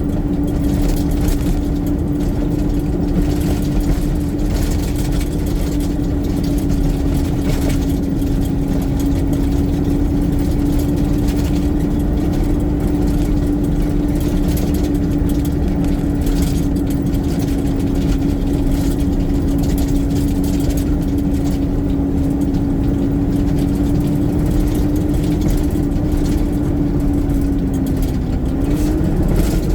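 Garbage truck's diesel engine running steadily, with a constant whine over a low rumble; the whine's pitch dips and comes back up near the end.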